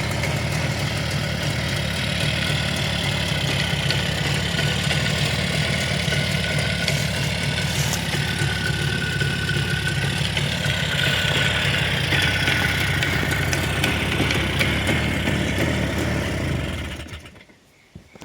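Jawa 350's two-stroke twin-cylinder engine running steadily at idle, then stopping near the end.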